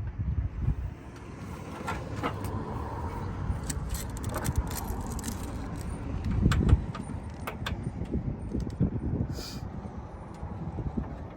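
Scattered metallic clicks and light knocks from hand work fitting a car's front fender panel, over a low rumble, with a heavier low thump about six and a half seconds in.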